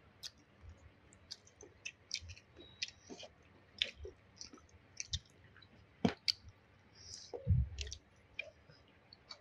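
Close-up eating sounds: chewing with irregular small wet clicks and smacks of the mouth, and a dull thump about seven and a half seconds in.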